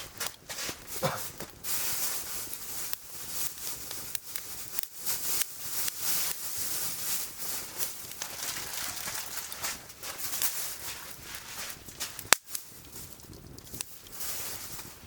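Burning firewood crackling and hissing, with a steady run of small snaps and one sharp, much louder pop about twelve seconds in.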